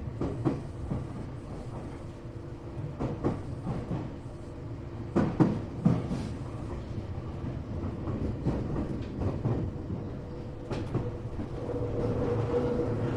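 Tokyo Metro 8000 series train running, heard from inside the car: a steady rumble with wheels clacking over rail joints several times. A steady hum comes in near the end.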